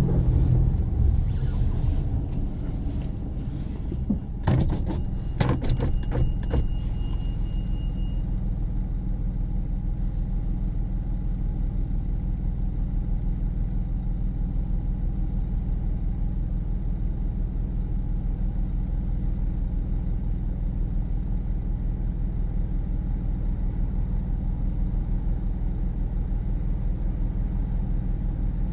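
Steady low rumble of a car driving, heard from inside the cabin. In the first six or seven seconds, irregular knocks and clatters sound over it.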